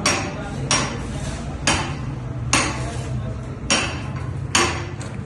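Commercial laundry machine running with a steady low hum, with sharp metallic knocks about once a second as the load tumbles in the drum.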